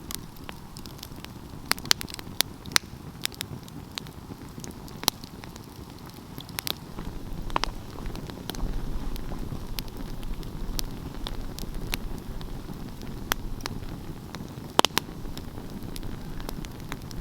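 Wood fire crackling, with irregular sharp pops and snaps over a low steady rumble that grows a little louder about halfway through.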